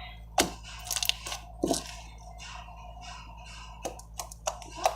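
Homemade slime being squeezed and handled, giving small sticky squishes and clicks, a few near the start and a cluster near the end.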